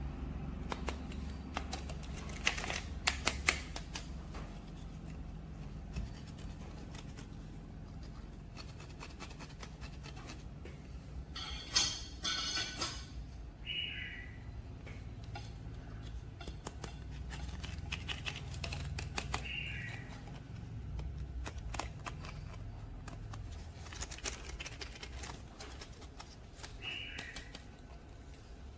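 Hands handling plastic toy figures and their packaging: scattered clicks, taps and rustles, busiest about twelve seconds in, with a few short high squeaks.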